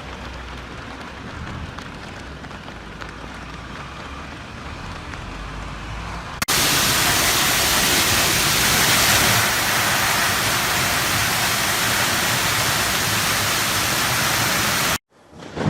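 Storm rain: a quieter rush with a low rumble, then an abrupt cut about six seconds in to a loud, steady hiss of heavy downpour, which stops suddenly just before the end.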